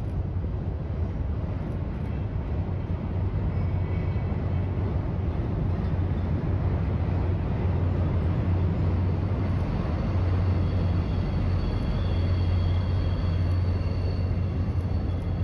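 Train crossing a steel railroad bridge: a diesel locomotive's steady low engine hum under the rumble of rail cars rolling over the span, growing louder as the MBTA locomotive draws near.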